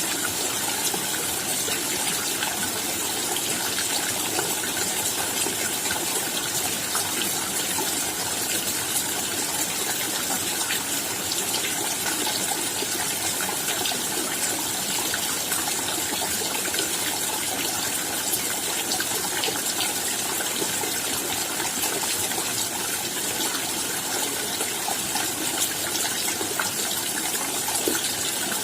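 Steady rain falling, a dense even hiss of drops with many small patters.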